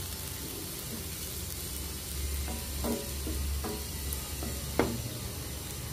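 Mushroom pepper fry sizzling steadily in oil in a nonstick pan as it is fried dry, with a few short scrapes of a spatula stirring against the pan around the middle, one louder near the end.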